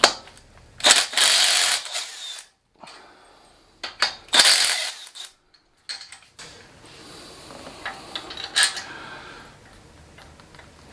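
Metal parts being handled on a motorcycle: a click, then two brief metallic rattling scrapes about one and four seconds in, and a few light clicks near the end.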